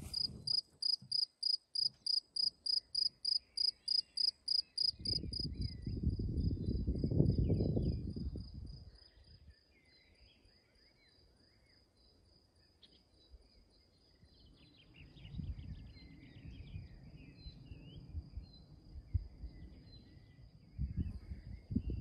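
An insect, cricket-like, chirping in an even run of about four high chirps a second, loud for the first five seconds, then fading to a faint continuous trill. Low rumbling noise swells twice, and faint short chirps are scattered through it.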